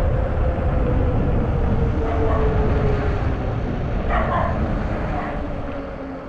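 Wind buffeting the handlebar-mounted camera's microphone during an e-bike ride, with a thin, steady whine that slides slightly lower in pitch. A short, higher-pitched call cuts in briefly about four seconds in, and the rumble eases off near the end.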